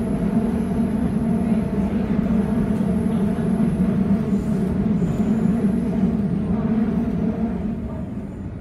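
Suburban electric train running, a steady loud rumble that eases down near the end.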